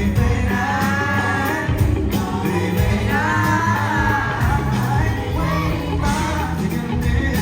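Live rock band playing with a singer, heard from the crowd in a large hall, loud and reverberant.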